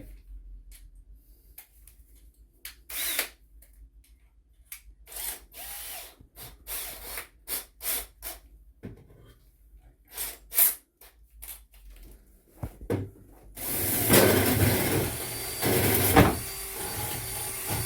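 Several short clicks and knocks of tool handling, then, about 13 seconds in, a power drill runs for about four seconds, driving a 20 mm Pro-Fit TCT-tipped hole saw through wood. The cut goes easily, with a brief dip partway through.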